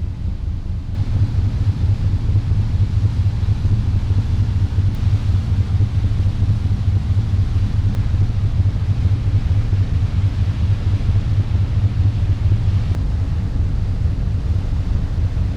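Ferry's diesel engines running with a steady deep rumble, with some wind noise. The rumble steps up about a second in.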